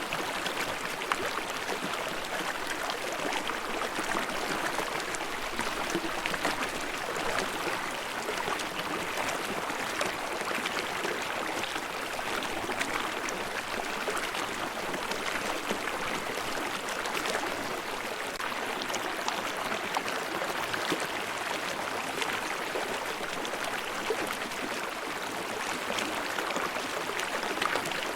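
Mountain stream babbling over rocks: a steady rush of running water with many small splashes and gurgles, its level unchanging throughout.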